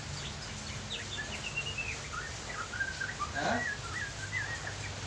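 A small bird chirping in a quick run of short, bending notes, over a low steady hum.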